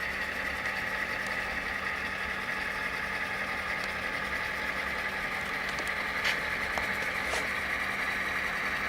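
Steady diesel engine sound from the Tsunami sound decoders in a pair of Proto 2000 BL2 model locomotives, played through their small onboard speakers as the engines run slowly. Two faint clicks come in the second half.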